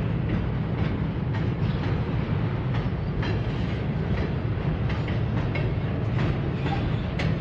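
Freight cars (boxcars and covered hoppers) rolling across a steel truss railroad trestle: a steady low rumble with scattered clicks and clanks from the wheels.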